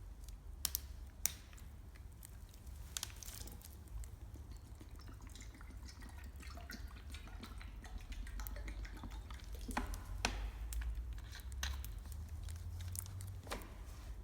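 Wood campfire crackling with scattered sharp pops, while water bubbles and drips in a mess tin heated over it.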